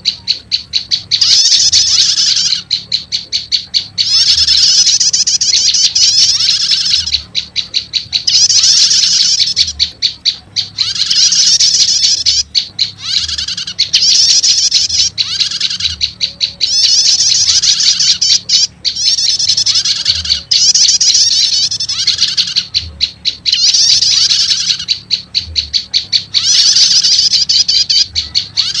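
Looped bird-lure recording of prenjak lumut calls: loud, rapid high-pitched chirping trills that come in repeated phrases of a second or two with short gaps between them.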